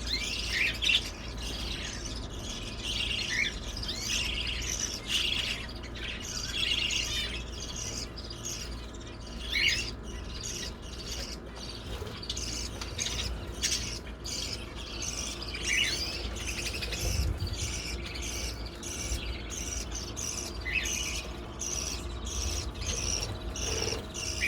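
Many small aviary birds, canaries and zebra finches among them, calling together: a dense, continuous chatter of short chirps and quick rising tweets.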